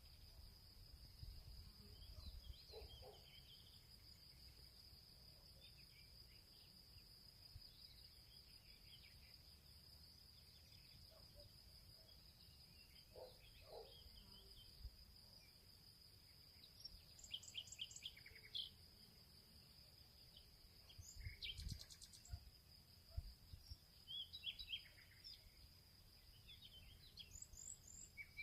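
Field ambience: a steady high-pitched insect trill under scattered bird chirps and short calls, which come thicker in the second half. A faint low rumble lies beneath.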